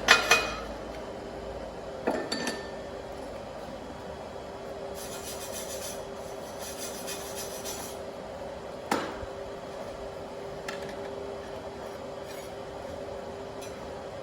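A few sharp metallic clinks and knocks, one at the start, one about two seconds in and one near the middle, over a steady electrical hum, with two short stretches of hiss between them.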